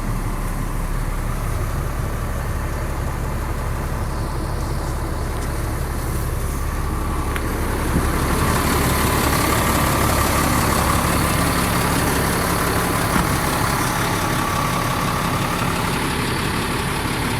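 Caterpillar 3126 inline-six diesel in a GMC T8500 truck idling steadily. About eight seconds in it gets louder and higher-pitched, as if stepping up to its high idle.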